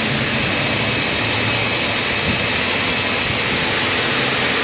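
2007 Ford Explorer XLT's 4.0-litre single-overhead-cam V6 running steadily, heard close up in the open engine bay as an even, hissing drone.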